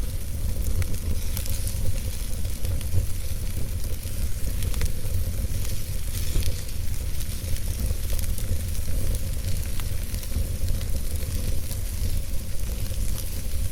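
Wood fire burning in a fireplace, steady hiss and low rumble of the flames with many small, irregular crackles and pops.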